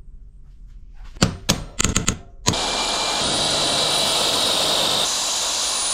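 A few sharp knocks, then a handheld power tool starts and runs steadily at a high whine for about three and a half seconds before cutting off.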